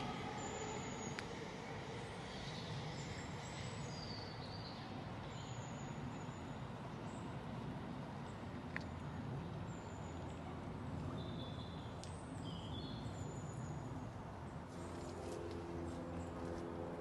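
Small birds chirping in short high calls over a steady low rumble of background noise, with a low humming tone joining near the end.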